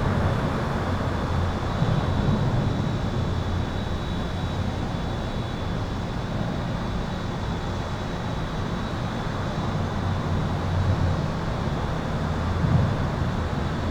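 Highway traffic under an overpass: a continuous low rumble of passing vehicles that swells and eases, with a thin, steady high-pitched tone over it.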